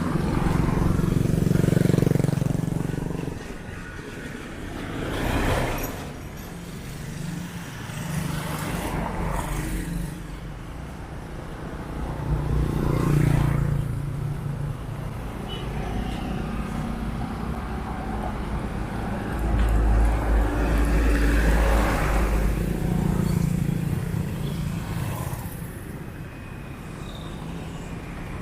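Street traffic: motor vehicles passing one after another, each engine hum swelling and fading, with a heavier low rumble about twenty seconds in.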